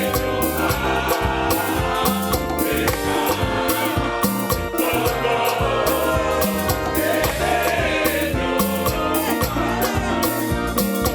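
Gospel choir singing with band accompaniment over a steady, driving percussion beat.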